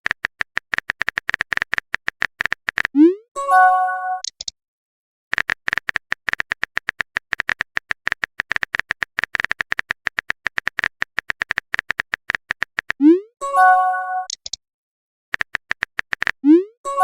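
Phone-keyboard typing sound effect: long runs of rapid clicks, each broken off by a short rising pop and a bright multi-note chime, as of a text message being sent. The pop and chime come three times, about three seconds in, about thirteen seconds in and at the very end.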